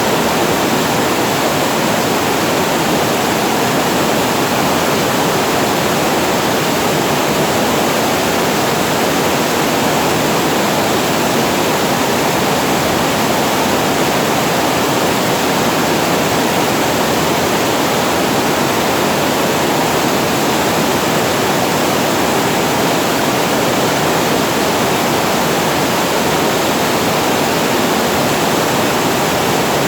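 Water pouring over a reservoir weir, falling in a steady, unbroken rush.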